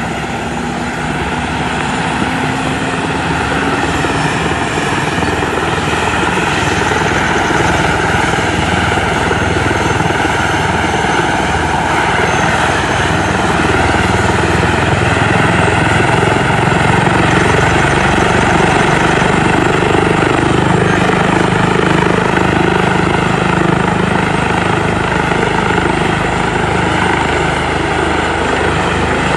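Rescue helicopter's turbine engines and rotor running steadily with a whine of several held tones, growing louder over the first fifteen seconds or so.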